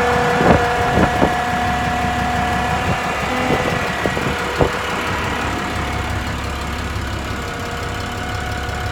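Diesel engine of an International 4300 bucket truck idling steadily, with a constant whine running over it. A few short knocks and clicks come in the first five seconds or so.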